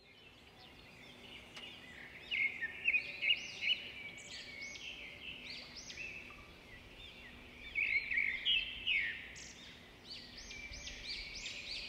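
Songbirds singing outside, several overlapping songs of quick chirps and whistled phrases, busiest about two seconds in, again around eight seconds, and near the end.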